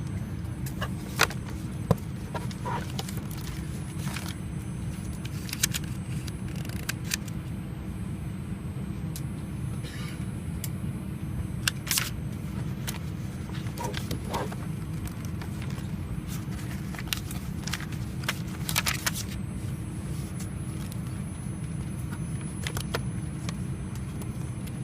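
Steady low hum inside the cabin of an Airbus A320 on the ground, with scattered sharp clicks and knocks throughout, the loudest about one and two seconds in.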